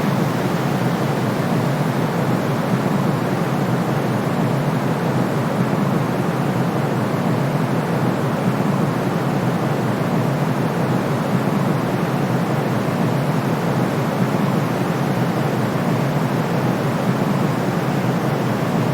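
Steady white noise, weighted toward the low end like pink or brown noise, a smooth unchanging rushing hiss of the kind played to soothe colicky babies.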